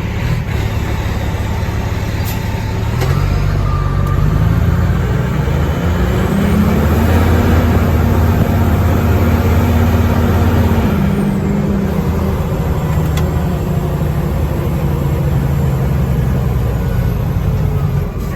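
A fire engine's diesel engine pulls under way over road noise. Its pitch rises through the first several seconds as it accelerates, holds, then drops about eleven seconds in.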